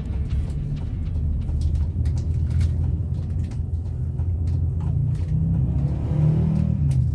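Bus running: a steady low rumble of engine and road noise, with a few light knocks.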